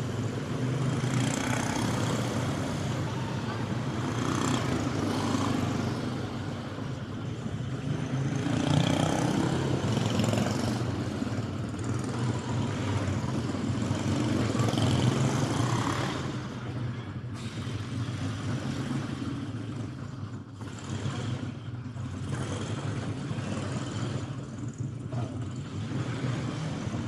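Racing kart engines running, the sound swelling and fading as they pass, over a steady low hum with indistinct voices in the background.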